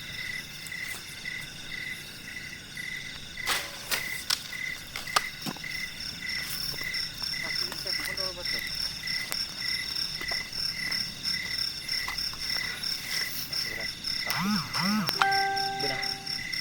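Night chorus of crickets and frogs: steady high trilling, one part pulsing about three times a second. A few sharp clicks come about 4 to 5 seconds in, and a short call with several steady tones comes near the end.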